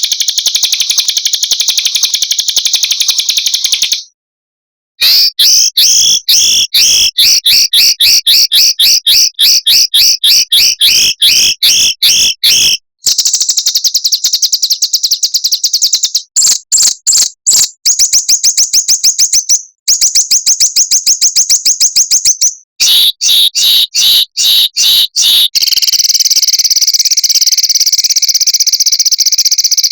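Small songbirds singing rapid, dense trills of high repeated notes, the fast rolls and sharp 'shot' calls of a bird-training recording. It is spliced from separate clips, with a short silence about four seconds in and brief breaks later, and it runs into a denser continuous trill near the end.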